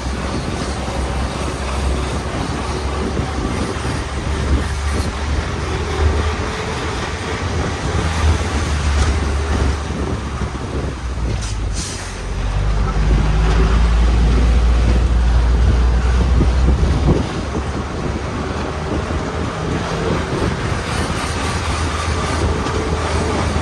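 Motor vehicle running: a steady low engine and road rumble with a hiss of noise above it, louder for about five seconds around the middle.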